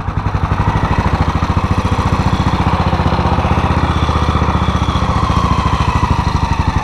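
1933 Moto Guzzi motorcycle engine running with a steady, rapid, even beat of exhaust pulses.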